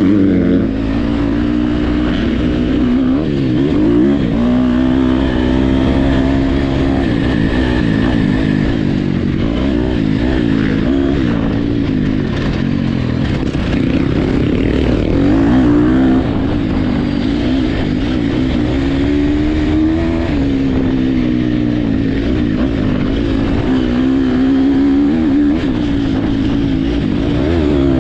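Motocross dirt bike engines racing, their pitch rising and falling again and again as the throttle is opened and shut.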